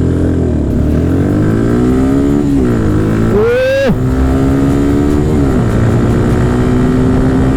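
Small single-cylinder motorcycle engine accelerating hard from a standing start. The pitch climbs and falls back three times as it shifts up through the gears, with a sharp high rev just before the second shift, then pulls more slowly in a higher gear.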